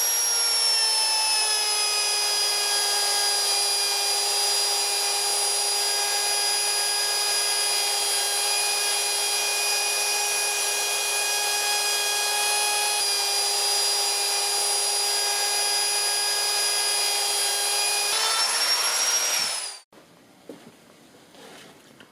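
Electric router running at high speed, a steady high whine that drops a little in pitch about a second in as the bit cuts a groove round the panel. The pitch rises again near the end as the cut finishes, then the motor winds down and stops.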